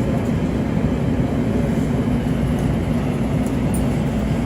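Steady low rumble of an LA Metro Expo Line light-rail train running between stations, heard from inside the car.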